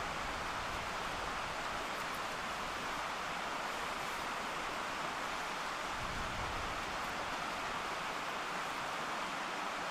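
Rushing water of a mountain stream: a steady, even hiss with no change.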